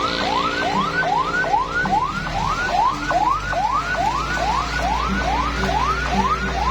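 An electronic whooping alarm tone: a rising sweep repeating about two and a half times a second without a break, over steady lower tones.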